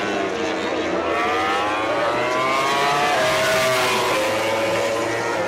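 Four-cylinder MotoGP racing motorcycle engines at full race pace, the pitch climbing as they accelerate and then stepping down about three seconds in, as at a gear change or braking.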